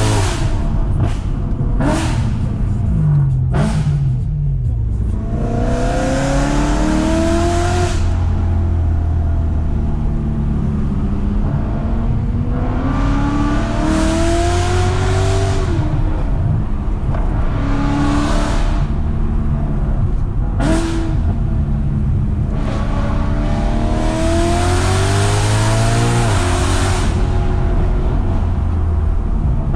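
BMW E92 M3's 4.0-litre V8, heard from inside the cabin, revving hard about four times as it pulls up through the revs, its pitch climbing for several seconds and then dropping back as the driver lifts or shifts. A few sharp cracks come in the first few seconds and once around the middle.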